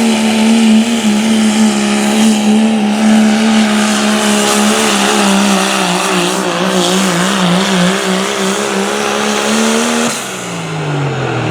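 Limited pro diesel pulling truck's engine running flat out under load, the pitch holding high and wavering through the middle of the pull. About ten seconds in, the throttle is cut and the engine note drops and winds down.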